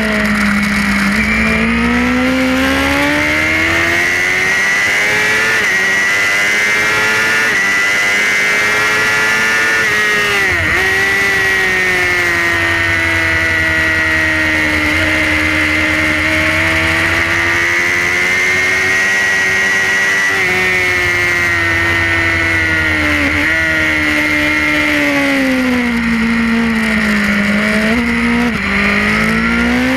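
Suzuki GSX-R superbike's inline-four engine heard from on board at racing speed, its pitch swelling and sagging with throttle, over a steady rush of wind. The revs dip sharply a few times, about a third of the way in and twice near the end.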